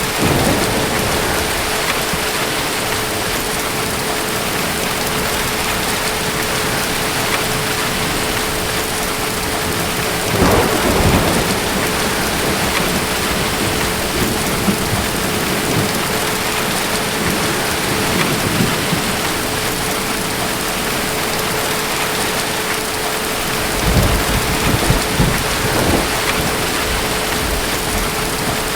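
Steady heavy rain with distant thunder rumbling over it: a roll near the start, another about ten seconds in, and a longer, broken rumble near the end.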